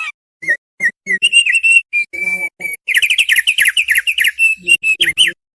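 Thick-billed heleia (opior paruh tebal) singing: a few separate short whistled notes, then a fast run of quick rising-and-falling whistles that stops suddenly about five seconds in.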